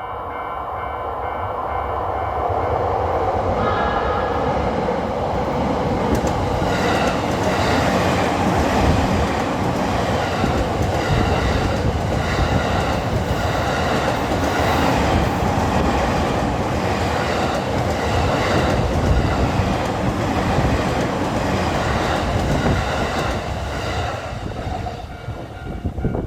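A Shonan-Shinjuku Line electric commuter train passes close by at a level crossing. Its rumble builds over the first few seconds, then the wheels clack over rail joints in a steady rhythm for about twenty seconds as the cars go by, easing near the end. A level crossing warning bell is heard ringing at the start.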